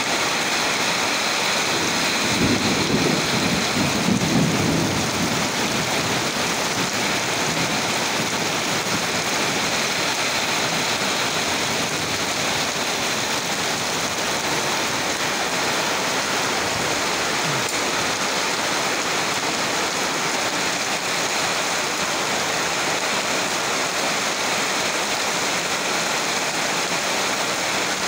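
Heavy rain falling steadily, with water pouring off a roof edge onto wet pavement. A low rumble swells briefly a couple of seconds in.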